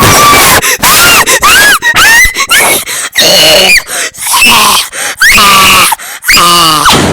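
A person screaming in excitement: a string of very loud, high-pitched shrieks, each rising and falling in pitch, one after another with short breaks.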